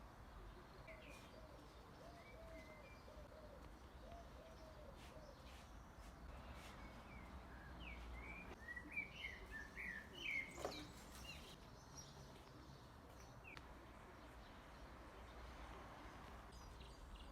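Faint garden birdsong: a few quick, high chirps clustered about halfway through, the loudest part, after a run of short, low, arching notes near the start.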